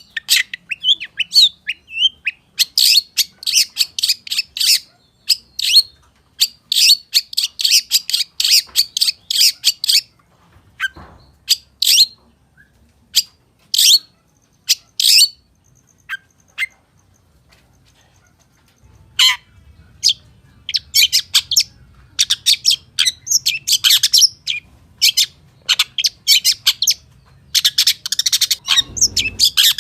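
Long-tailed shrike (pentet) singing in fast runs of short, high chirps and varied notes, a full song packed with mimicked calls of other birds. About ten seconds in, the song thins to scattered single notes for several seconds, then dense runs start again.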